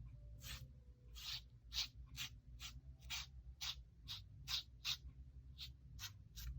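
Paintbrush scratching across textured watercolour paper in quick, short dry-brush strokes, about two a second: a brush carrying little water dragged so that it skips over the paper's grain.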